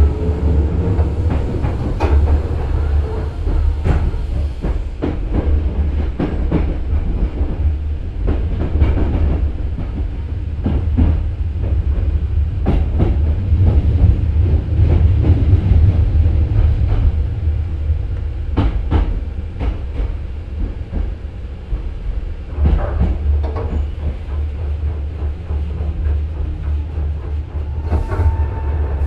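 Nose Electric Railway 5100-series electric train car running slowly over the station crossover during a shunting move. Its wheels click irregularly over the points and rail joints above a steady low running rumble.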